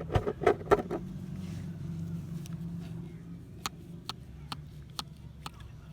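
Restored pliers being worked open and shut, giving sharp clicks: four quick ones in the first second, then a pause, then a run of about two a second. A low steady hum lies underneath and fades away about halfway through.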